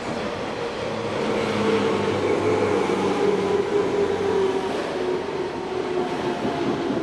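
JR East 185 series electric express train running past along the platform, with the rumble of wheels on rail and a motor and gear hum. The noise grows louder over the first couple of seconds as the front passes, and the hum falls slightly in pitch.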